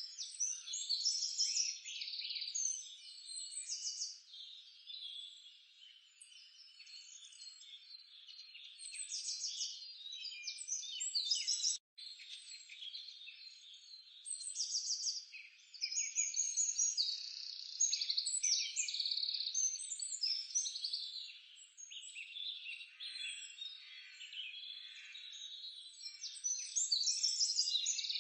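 Chorus of high-pitched wild animal calls, many overlapping chirps and rapid trills, with a brief dropout about twelve seconds in.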